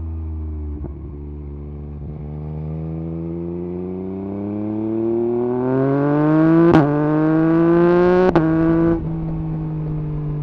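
Yamaha MT-09 SP's three-cylinder engine through an Akrapovič exhaust with the dB killer removed, pulling under hard acceleration: the engine note climbs steadily for several seconds, with two sharp cracks near the top. About nine seconds in the throttle eases off and the engine settles to a steady cruising note.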